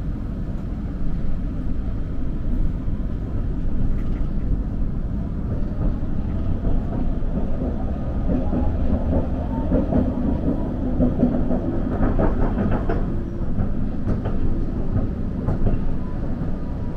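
Kagoshima City tram running along its track, heard from inside the car: a steady low rumble of wheels and motor, with a few clacks over the rails.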